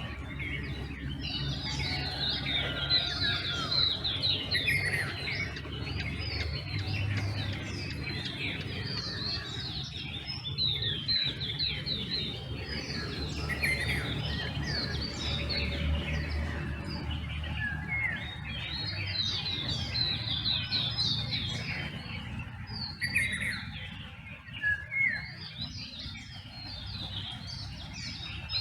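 Dawn chorus: many birds chirping and singing over one another in a busy, overlapping mix of short high calls and trills, over a steady low rumble.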